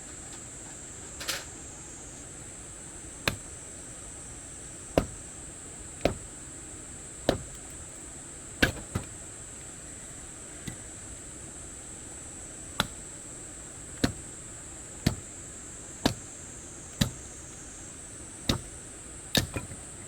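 Firewood being chopped or split with sharp, separate blows, about one a second, over a steady high-pitched insect drone.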